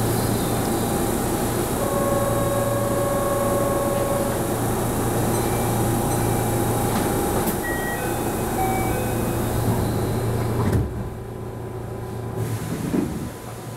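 Keihan 13000 series train standing at a platform with its doors open: a steady electrical hum under station noise, with a few short tones. About eleven seconds in the sound drops sharply as the sliding doors close, and a knock follows a couple of seconds later.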